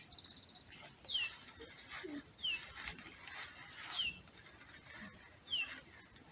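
A bird calling four times, each a short high whistle sliding downward, about every second and a half, over a faint hiss. A brief fast ticking sounds just at the start.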